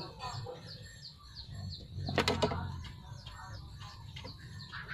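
A bird chirping repeatedly in short, falling notes, about two to three a second. About two seconds in comes a brief flurry of sharp knocks.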